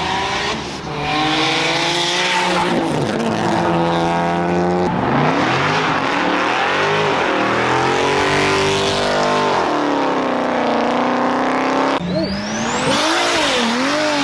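Car engine revving hard at high rpm, rising and falling repeatedly, with a steady hiss of tyres squealing, as in a car-show burnout. The sound changes abruptly about five seconds in and again near the end.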